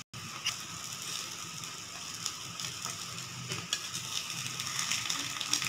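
Egg paniyaram sizzling in hot oil in a paniyaram pan while a metal spatula turns them over, with occasional light clicks of the spatula against the pan.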